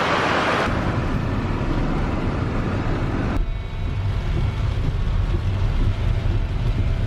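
Wind buffeting the microphone over a steady rush of heavy rain and falling water. The sound changes abruptly about a second in and again halfway through.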